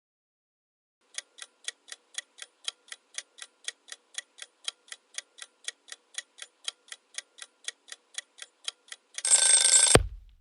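Countdown-timer sound effect: a clock ticking about four times a second, then a short ringing alarm-clock bell near the end that cuts off with a thump, marking time up on a quiz question.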